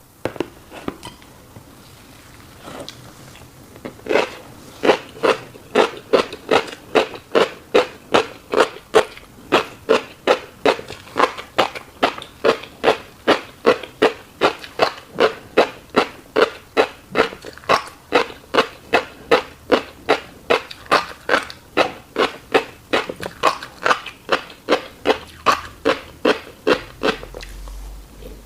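Close-miked mouth sounds of a person chewing fish roe, wet and steady at about two chews a second after a quieter start with a few clicks.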